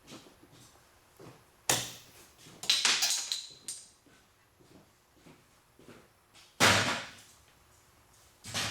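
Sharp knocks and clattering of small parts as an ignition switch is worked apart on a bench, with the loudest sudden snap about two thirds of the way through.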